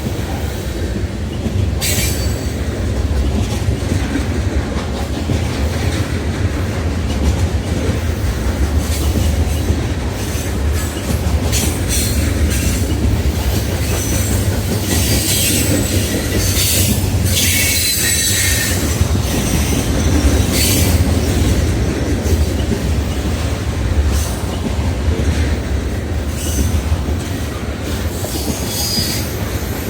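Freight train rolling past: a steady low rumble of railcars on the track, with the wheels squealing shrilly again and again, the longest squeal about halfway through.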